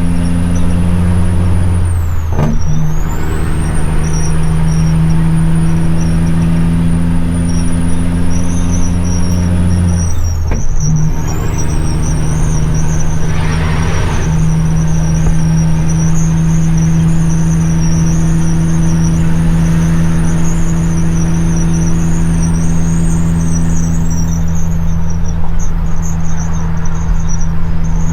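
CAT C-15 diesel in a dump truck pulling through the gears of an 18-speed transmission, with a high turbo whistle over the engine note. The note breaks briefly for a shift about two seconds in and again about ten seconds in, the whistle dropping and then building back each time. Near the end the whistle winds down as the throttle eases.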